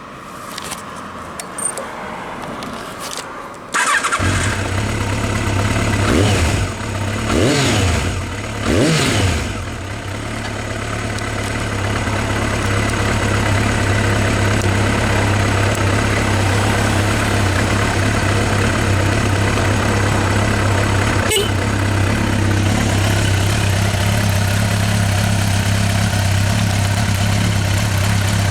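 Kawasaki ZRX1200R inline-four with a STRIKER aftermarket exhaust starting up about four seconds in. It is blipped three times over the next few seconds, then settles into a steady idle.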